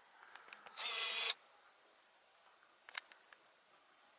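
Camera's zoom lens motor whirring for about half a second, about a second in, followed by a few faint clicks near the three-second mark.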